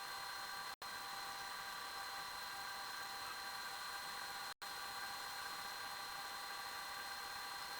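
Steady machine whir and hum with a high, thin whine and a few lower steady tones, cutting out for an instant twice.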